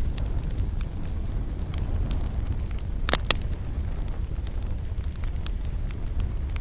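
Wood fire burning in a fireplace: a steady low rumble with scattered sharp crackles and pops, the loudest a quick double pop about three seconds in.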